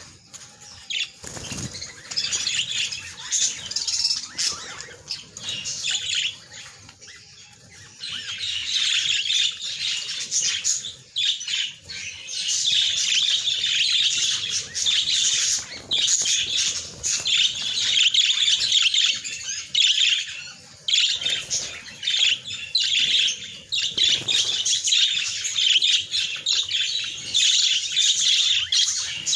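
A flock of small birds chirping and chattering continuously in a dense, high twittering, with a brief lull about seven seconds in.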